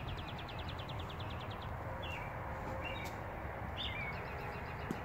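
Small birds chirping: a rapid high trill of about a dozen notes a second for the first second and a half, then short chirps scattered through the rest, over a steady low rumble of background noise.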